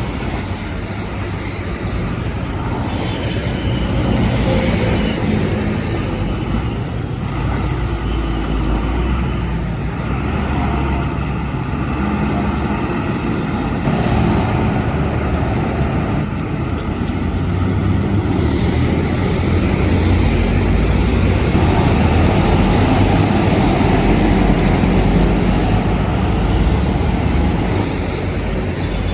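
Road traffic with heavy trucks: a steady low engine rumble and tyre noise that swells and eases a few times as vehicles pass.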